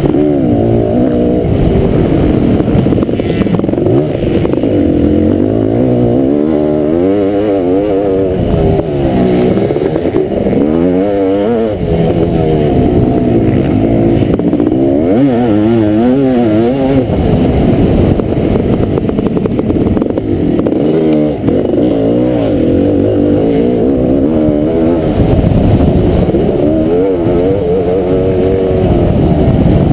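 Kawasaki KX500 two-stroke single-cylinder motocross engine being raced, running loud throughout, with its pitch rising and falling over and over as the throttle is worked and the gears change.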